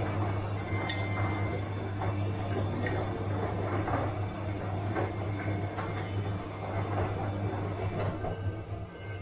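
Bosch washing machine running mid-cycle: a steady low hum with softer recurring swishes and a few light clicks, easing a little quieter near the end.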